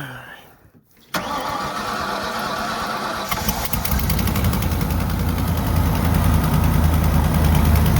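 Cold start of an old Ford pickup's IDI diesel engine: the starter cranks for about two seconds from a second in, the engine catches, and it settles into a steady idle that grows a little louder.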